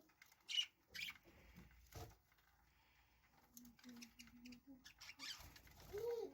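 Pet budgerigars making faint, scattered clicks and taps, typical of birds pecking at seed or moving about a cage. A few short low notes follow in the middle, then two arched calls near the end.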